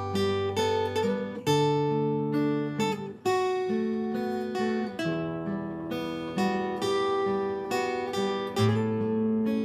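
Acoustic guitar playing an instrumental intro: strummed chords with plucked melody notes that ring on, a new note or chord about every half second to a second.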